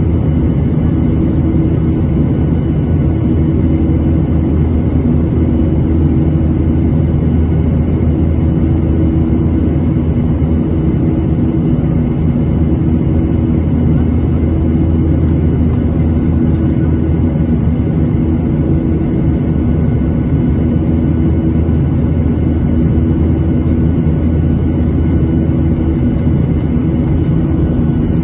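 Cabin noise of a Boeing 737-800 with its CFM56-7B turbofans running at a steady setting: a loud, even low drone with a constant hum, heard from inside the passenger cabin.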